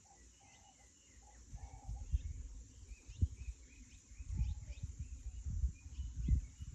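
Small birds chirping over and over, with irregular low thuds and rustling that become more frequent after about two seconds, typical of handling and pulling weeds close to the microphone.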